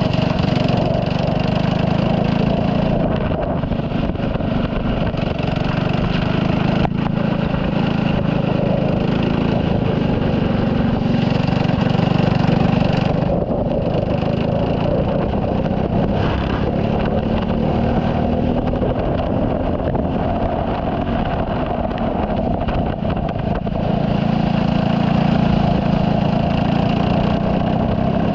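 Turbocharged Saab 9-3 race car's engine running hard on track. The engine note drops off briefly a few times and then comes back.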